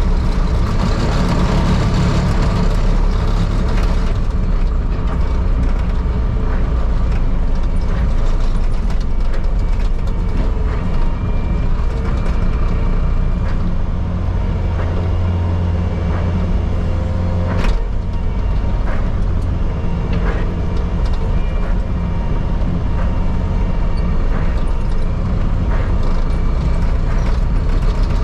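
Truck engine running with a steady low rumble, and a single sharp click about two-thirds of the way through.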